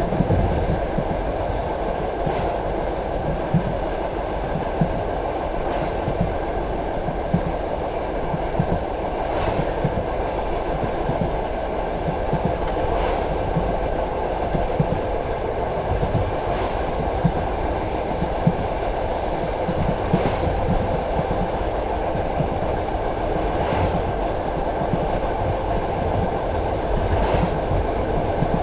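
Passenger train carriage running on the rails: a steady rumble with the clickety-clack of wheels striking rail joints, sharp clicks coming every second or two.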